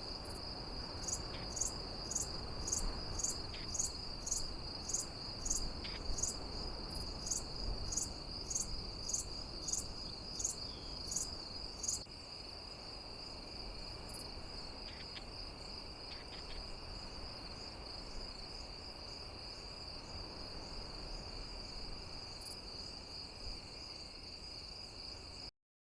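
Crickets calling: a steady high-pitched trill, joined by a second, sharper chirp repeating about twice a second that stops about halfway through. The sound cuts off suddenly near the end.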